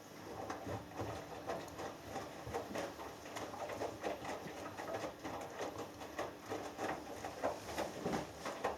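Hoover Dynamic Next front-loading washing machine in the wash phase of a 60 °C cotton cycle: the drum turns and the wet 6 kg load tumbles. It makes a rapid, irregular patter of soft knocks and splashes.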